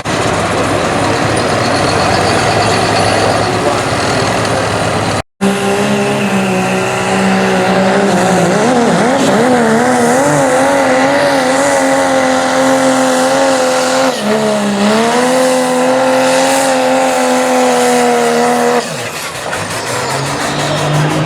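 Diesel 4WD pulling pickup's engine held at high revs under load as it drags the sled, its pitch wavering around 8–9 s and dipping briefly about 14 s, then the revs fall away as it lets off near the end. There is a brief cut about 5 s in.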